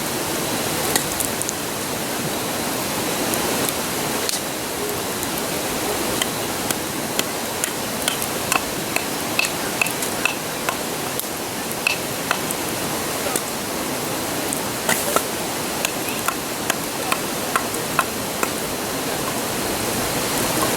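Wood bonfire crackling, with sharp pops every second or so, over the steady rushing of a river.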